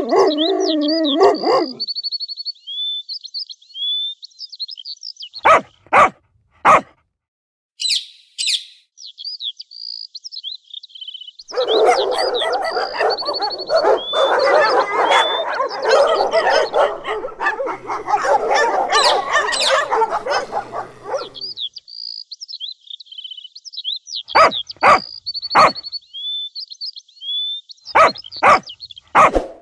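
A dog barking in short groups of two or three sharp barks, with a longer stretch of dense, continuous sound in the middle. Birds chirp steadily in the background.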